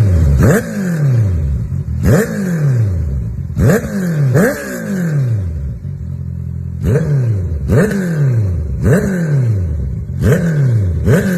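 Honda CBR650R inline-four through an Akrapovič Racing Line titanium full exhaust, revved in about nine short, sharp throttle blips. The pitch falls back toward idle after each blip.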